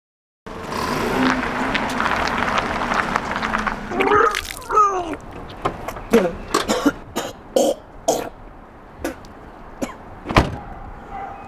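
A man retching and coughing: a few seconds of dense, noisy sound, then a wavering groan, then a string of short, harsh coughs and gags.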